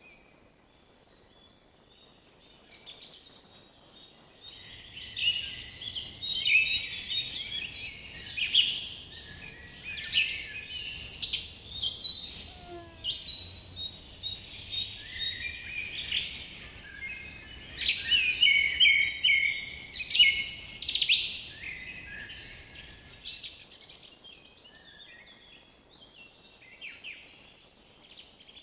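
Songbirds singing and chirping in a dense chorus of quick, high calls, starting a few seconds in, loudest through the middle and thinning out near the end.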